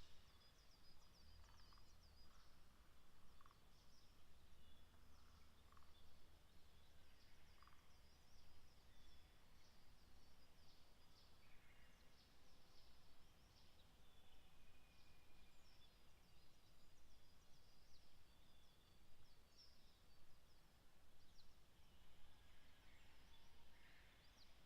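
Near silence in the evening outdoors, with faint, scattered short high-pitched bird chirps and a faint low rumble underneath.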